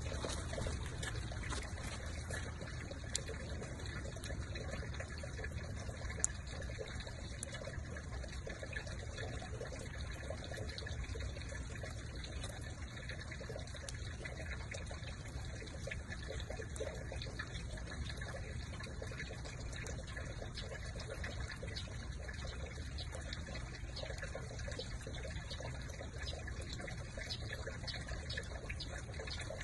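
Light rain falling on garden plants: a steady hiss with many small drip ticks over a low rumble, and two sharp clicks, about three and six seconds in.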